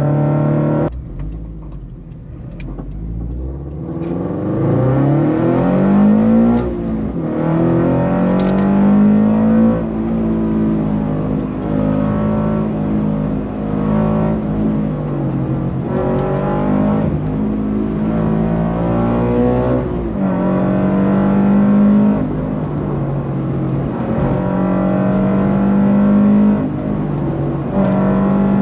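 A Subaru BRZ's flat-four engine, fitted with an unequal-length header and a catless exhaust, heard from inside the cabin while it is driven hard on a twisty road. The engine pitch climbs again and again under full acceleration and falls where the driver lifts off for corners. About a second in there is a sharp drop and a quieter stretch.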